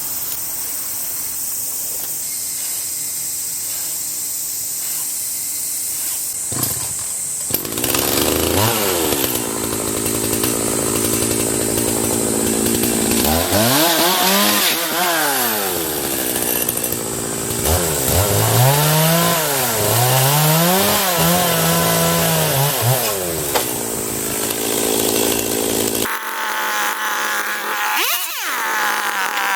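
Small two-stroke engine of a handheld cutting tool running at speed while cutting, its pitch rising and falling again and again as the throttle is worked.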